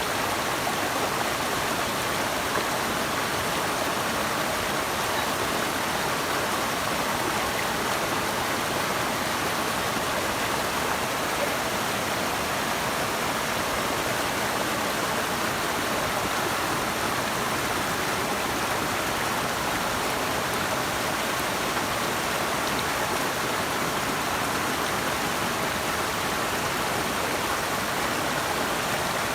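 Steady rushing of flowing water, an even, unbroken hiss with no rise or fall.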